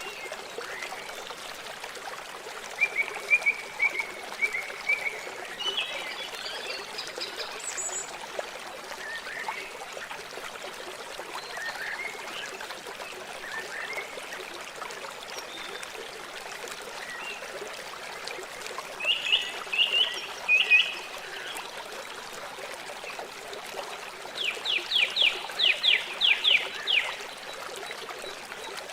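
River water flowing steadily, with birds calling over it now and then: a few short calls in the first half, a pair of calls about two-thirds in, and a rapid run of a dozen or so repeated notes near the end.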